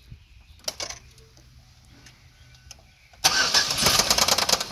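Chevrolet Equinox's 3.4-litre V6 started: a few clicks, then about three seconds in the engine catches suddenly and runs loud with a rapid, even knocking pulse. The uploader calls it the sound of a bad, totally junk motor.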